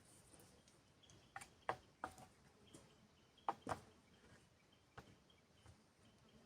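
Quiet forest ambience broken by a handful of faint, sharp clicks and knocks, two of them in quick pairs, with a faint steady high tone in the background.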